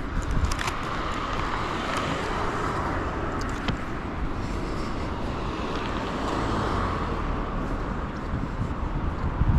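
Road traffic: cars passing along a street, a steady noise of tyres and engines that swells and fades.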